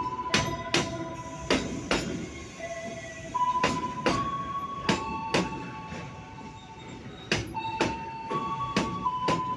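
Container freight wagons rolling past, their wheels clacking over a rail joint in pairs of knocks (the two axles of each bogie), about six pairs. Sustained tones at a few pitches change every second or two over the clacking.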